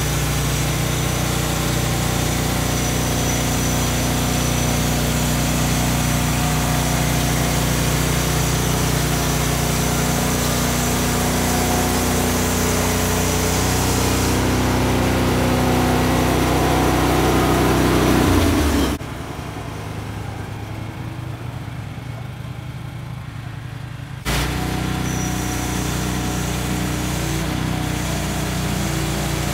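Small gas engine of a Woodland Mills band sawmill running steadily under load while sawing a long log, its pitch shifting about fifteen seconds in. About nineteen seconds in the sound drops away abruptly and comes back suddenly about five seconds later.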